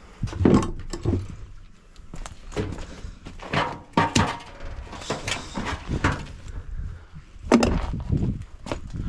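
Irregular knocks and clunks of washing machine parts being handled and struck during dismantling, about a dozen in all, the loudest about half a second in and again near the end.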